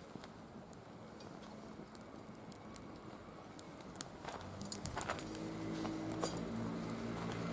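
Firewood burning with scattered sharp crackles and pops, which come more often in the second half. Background music fades in over the second half.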